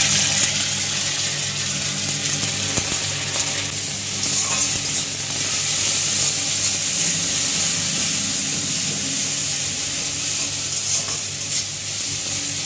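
Sliced onions and ginger-garlic paste sizzling steadily in hot oil in an aluminium kadai, stirred with a spatula: the frying base of a curry gravy.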